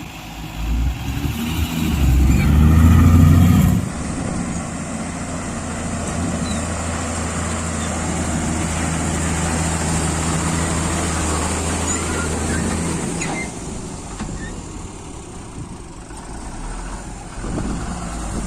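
Heavy diesel engine revving hard for the first few seconds, dropping off suddenly about four seconds in, then running steadily at high revs. It settles lower and quieter near the end.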